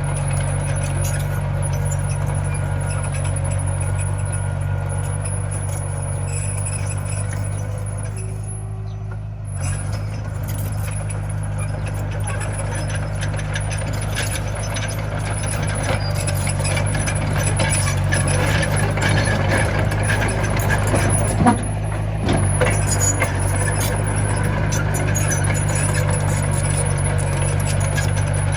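Komatsu mini bulldozer's diesel engine running steadily under work, with clatter over it. The sound drops briefly about nine seconds in, and a sharp knock comes a little after twenty seconds.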